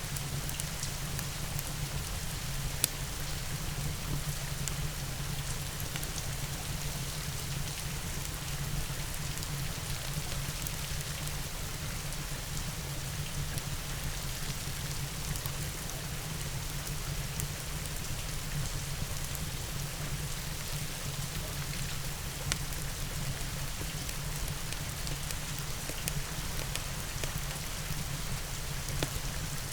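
Steady rain falling, with a few sharp pops, the loudest about three seconds in, from a crackling fireplace.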